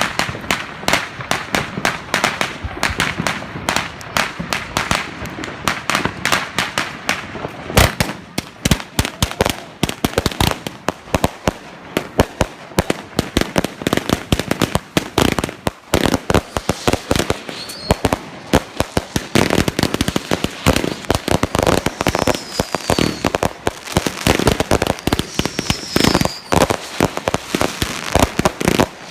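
Fireworks going off in rapid succession: a dense, continuous run of bangs and crackles. In the second half a few short whistles fall in pitch.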